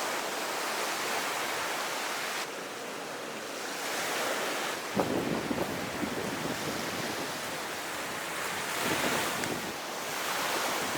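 Sea surf washing on the shore, with wind buffeting the microphone; the noise swells and eases, with a few faint knocks about five seconds in.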